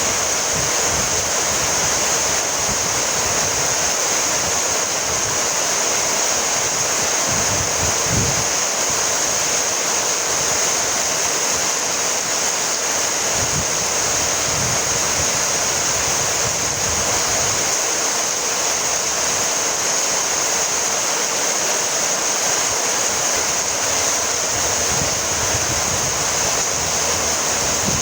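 Steady rainfall, an even hiss with no single drops or other events standing out.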